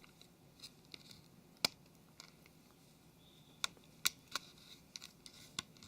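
Plastic rear casing of a Nokia Lumia 720 being pried away from the screen at its top corner: faint scraping with sharp plastic clicks, one a little over a second and a half in and four or five more between about three and a half and five and a half seconds.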